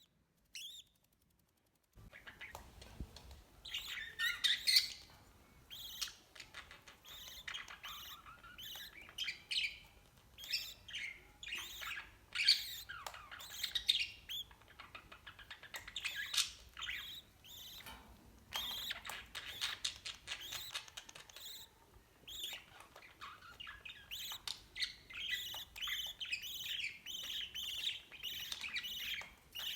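Parrots chirping and squawking in a busy run of short, repeated calls, starting about two seconds in.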